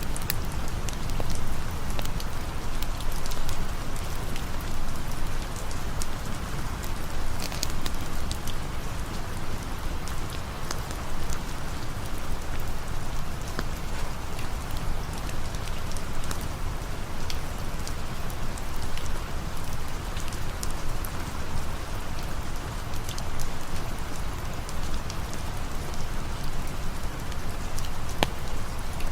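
Steady rain: an even hiss over a low rumble, with scattered sharp ticks of drops.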